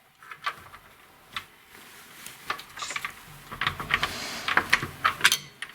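Irregular light clicks and knocks, sparse at first and more frequent in the second half.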